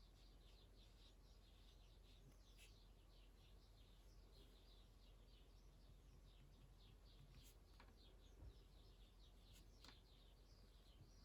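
Near silence, with faint, rapid high-pitched chirping from a distant bird, several chirps a second, and a couple of soft clicks.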